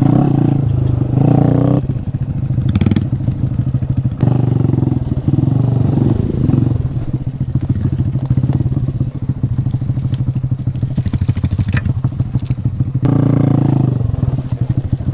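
Honda Grom's 125cc single-cylinder engine running under load while riding over whoops in sand. The engine note is steady at first. About two seconds in it turns choppy, with rapid pulses, and it steadies again near the end.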